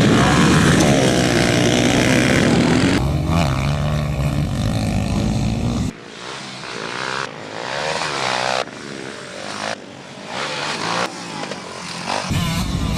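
Racing off-road engines revving hard, their pitch rising and falling as the machines accelerate and pass. Loud and continuous for the first few seconds, then in several short bursts that change abruptly every second or so.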